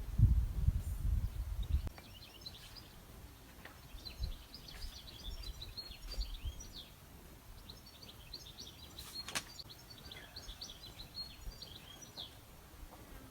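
Small birds chirping in quick runs of short high twitters, with a single sharp click about nine seconds in. A low rumble fills the first two seconds.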